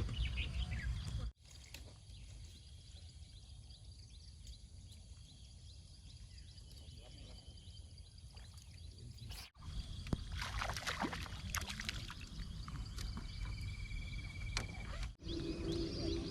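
Outdoor pondside ambience: a low steady rumble of wind and surroundings, broken by abrupt edits. A short burst of sharp, scrappy noises comes about ten seconds in.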